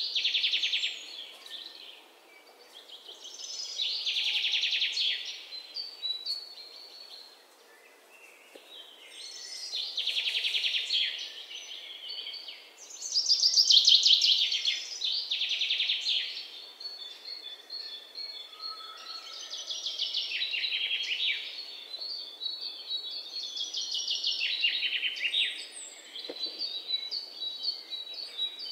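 Birdsong: bursts of rapid trilling every few seconds, with shorter high chirping notes in the second half.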